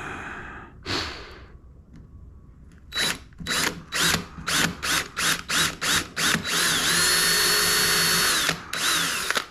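Power drill driving a screw into plywood: a quick string of short trigger bursts, about three a second, then a steady run of about two seconds that winds up and winds down, and one last short burst.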